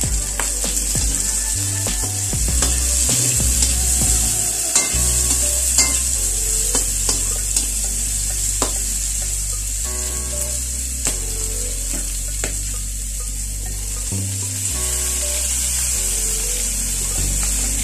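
Onions, garlic and chili sizzling in hot oil in a wok, with a metal slotted turner clicking and scraping against the pan as they are stirred. Near the end, raw chicken pieces are tipped into the pan and the sizzling goes on.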